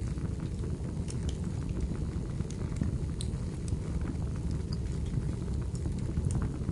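Wood fire burning in a fireplace: a steady low rumble of the flames with scattered sharp crackles and pops from the firewood.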